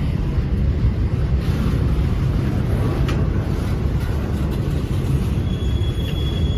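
A train rolling past, a steady, loud rumble of railcar wheels on the rails, with a faint high thin tone joining near the end.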